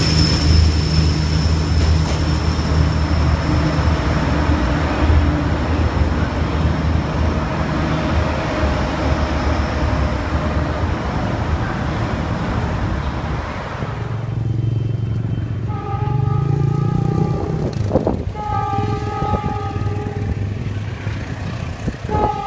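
A passenger diesel multiple unit running past close by, its engine drone mixed with the wheels' rumble on the rails, for roughly the first fourteen seconds. Then a train horn sounds two steady chord blasts of about two seconds each, and a third begins near the end.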